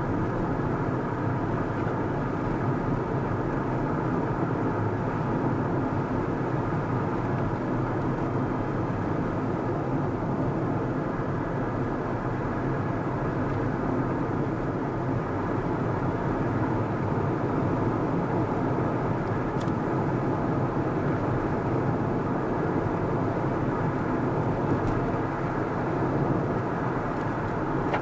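A car driving along at a steady pace: an even hum of engine and tyre noise with no change in speed.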